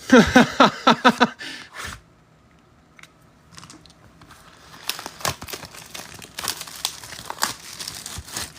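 Plastic wrapping on a sealed hobby box of trading cards crinkling and tearing as the box is opened: a dense run of crackles and sharp clicks. It starts about three and a half seconds in, after a short loud falling squeak at the very start.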